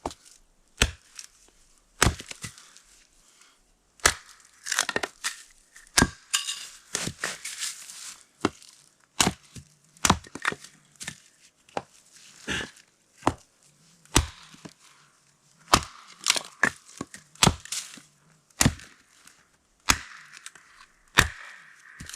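Firewood being chopped into kindling: sharp blade strikes into wood about once every second or so, with dry wood cracking and splintering between some of the blows.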